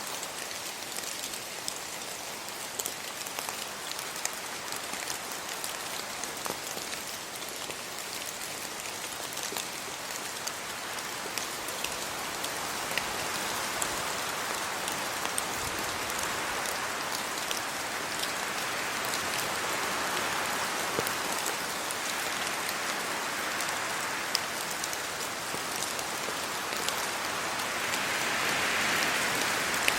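Steady rain falling on trees, leaves and a road, with many individual drops ticking through the hiss. It grows gradually louder through the second half in broad swells, loudest near the end.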